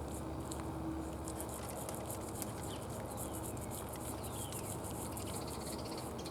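Deer chewing bird seed: a rapid run of small crunching clicks over a steady low background hum. A few faint high chirps glide downward in the middle.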